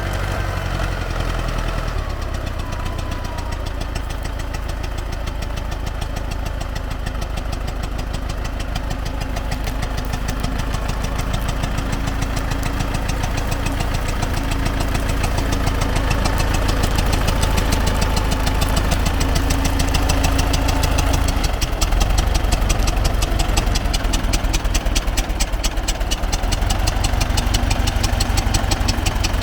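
T-40AM tractor's air-cooled four-cylinder diesel running as the tractor drives, getting gradually louder and stepping up again about two-thirds of the way through.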